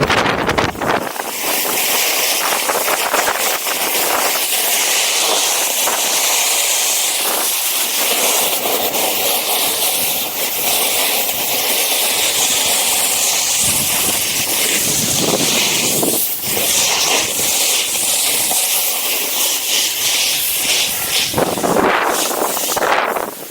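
Snowboard sliding and scraping over hard snow during a run: a loud, steady rushing hiss that rises and falls in places. Wind buffets the microphone with a low rumble in the first second.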